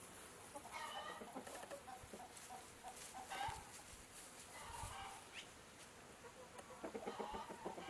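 Chickens clucking, a string of short calls, growing busier near the end.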